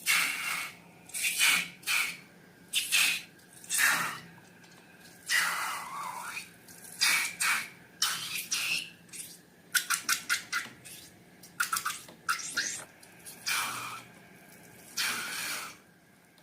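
Slime being squished and stretched by hand, a string of irregular wet squelches, with a quick run of small clicking pops about ten seconds in.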